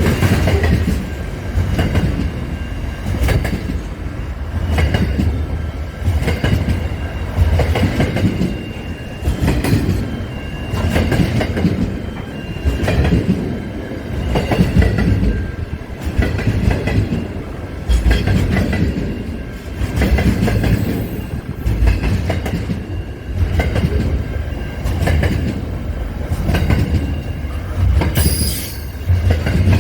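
Railway train running past, its wheels knocking over the rail joints in a regular clickety-clack, with thin squealing tones from the wheels. A brief high screech or hiss comes near the end.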